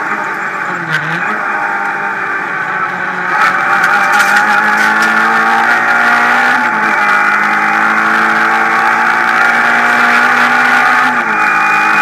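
Renault Clio Ragnotti rally car's engine heard from inside the cabin, held at high revs at stage speed, with brief dips in revs about a second in, near the middle and near the end. A steady hiss of road and wind noise runs under it.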